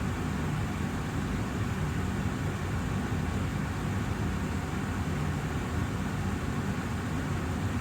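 Austin Air HealthMate air purifier running steadily: an even fan and airflow noise, mostly low, with no change in speed.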